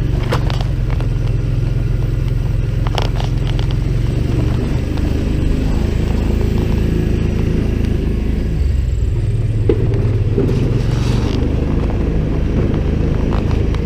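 Engine of a small open farm vehicle running steadily as it drives, with a few short rattles and knocks from the ride; the engine note shifts slightly about nine seconds in.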